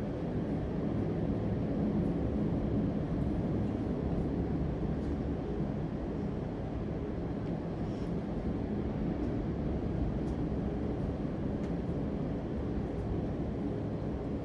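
Steady low rumbling background noise, even in level throughout.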